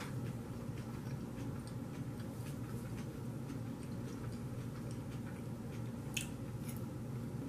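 Faint chewing of crisp Caesar salad lettuce: soft, scattered crunching clicks over a steady low hum, with one sharper click near the end.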